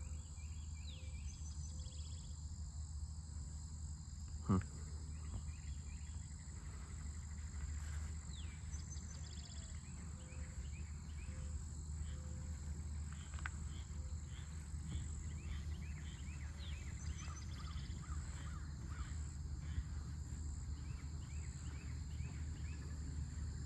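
Outdoor ambience of birds calling with many short, repeated chirps over a steady high insect drone and a low rumble. One sharp click about four and a half seconds in.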